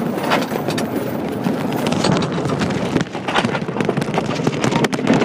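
Small battery-powered mine train rolling on its rails, the cars clattering with a busy run of clicks and knocks.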